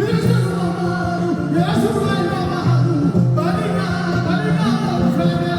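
Kora, the West African harp-lute, playing plucked melodic lines under a singing voice whose pitch bends and glides over steady low bass notes.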